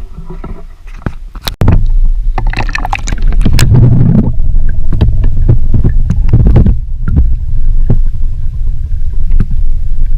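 Heavy low rumble of wind buffeting the microphone out on the water, with splashes and knocks, starting suddenly about one and a half seconds in.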